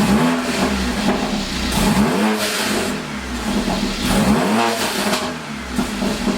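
Straight-piped Mercedes CLA45 AMG's turbocharged four-cylinder revved three times, about two seconds apart, each rev climbing and falling back to idle.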